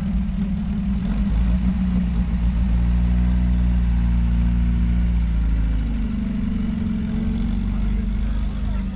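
Car engine running with a steady, deep low note; its pitch shifts about five to six seconds in.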